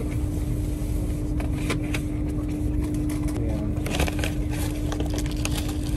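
Low rumble and a steady hum inside a train carriage, with paper crackling and rustling now and then, most of all about two-thirds of the way through as a paper food bag is opened.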